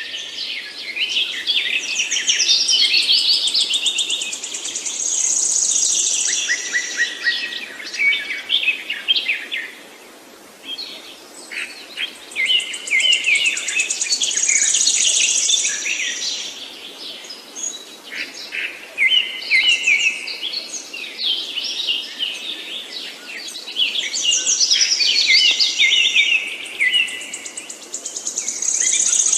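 Songbirds singing in long, rapid twittering phrases with trills and a high held note, each phrase lasting several seconds and returning about every ten seconds, over a steady low background hiss.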